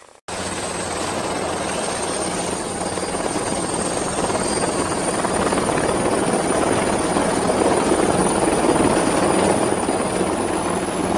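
Helicopter in flight: the rapid beat of the rotor blades under a thin high turbine whine that rises slowly in pitch, growing a little louder. It starts abruptly a moment in.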